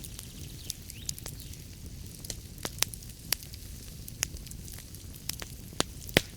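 Fireplace wood fire burning: a steady low rumble and hiss with sharp, irregular crackles and pops, the loudest pops near the end.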